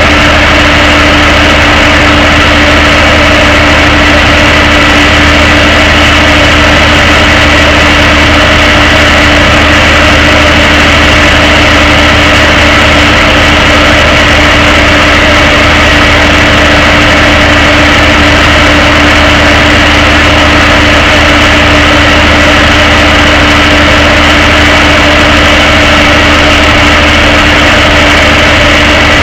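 Tow truck's engine running steadily at idle, loud and unchanging throughout.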